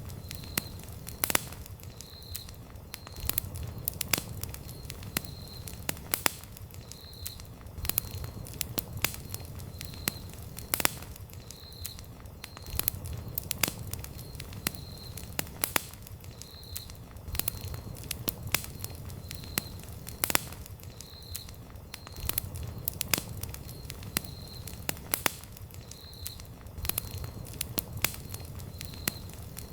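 Wood campfire burning and crackling: irregular sharp pops and snaps of burning wood over a low, steady rumble of flame. A faint short high chirp repeats about once a second.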